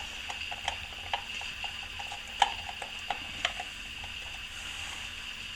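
Scattered light clicks and taps of hand work at the wall, with one sharper click about two and a half seconds in, over a faint steady hiss.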